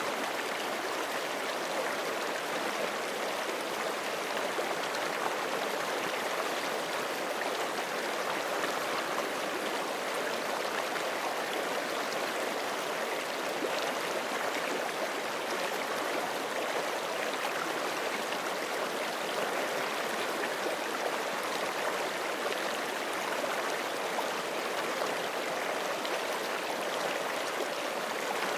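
Forest creek flowing steadily over rocks, a continuous even rush of water.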